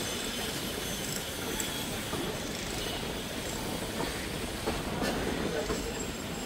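Train moving on the rails: a steady rumbling noise with a few faint clicks.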